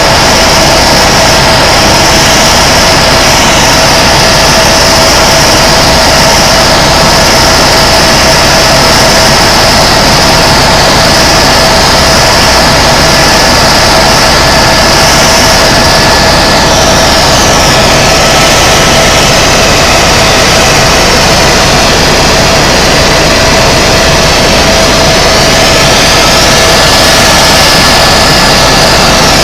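Tour helicopter in flight heard from inside the cabin: loud, steady turbine and rotor noise with a constant whine. A high whine wavers up and down in pitch over the second half.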